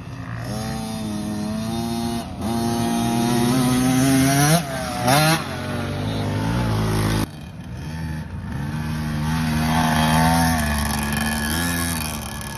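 KTM kids' motocross bike engines revving hard. The pitch climbs and drops again and again as the riders go through the gears. The sound breaks off abruptly about two seconds in and again about seven seconds in.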